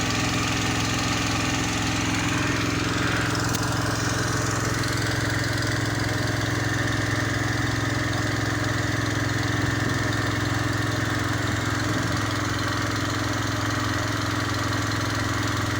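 An engine running steadily at constant speed, with a brief rising whine about three seconds in.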